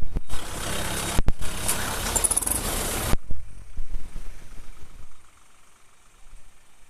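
Tractor diesel engine running loud and hard, broken by two very short gaps, then cut off abruptly about three seconds in, leaving a much fainter engine sound that fades further near the end.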